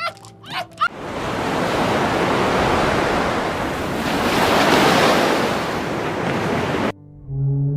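A few quick rising yips, then a loud, steady rushing noise that swells and eases twice over about six seconds and cuts off abruptly near the end.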